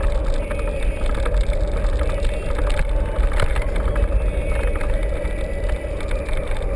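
Mountain bike riding: steady wind rumble on the microphone with frequent small rattles and clicks from the bike.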